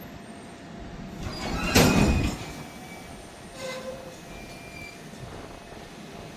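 Railway noise with one brief loud rush of noise about two seconds in, and a smaller burst with short tones near four seconds.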